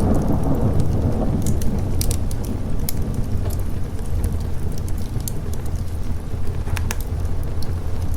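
Thunderstorm ambience: a deep rolling thunder rumble, heaviest in the first couple of seconds and then easing, over a steady wash of rain. Scattered sharp crackles and pops from a wood fire run through it.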